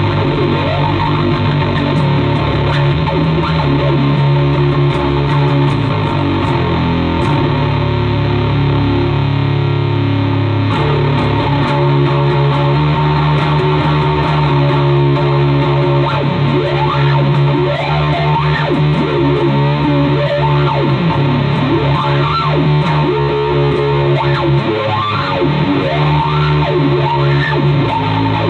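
Heavily distorted electric bass, an ESP LTD EC-104 with active pickups, played through a RAT distortion pedal and a bass wah into an Orange Terror Bass amp with the gain on full, heard through an Ampeg SVT 15E speaker. It plays low riffs, with sweeping glides in the upper tone throughout.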